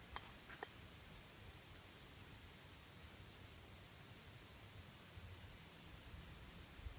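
A steady, high-pitched chorus of insects trilling outdoors, with a couple of faint ticks near the start.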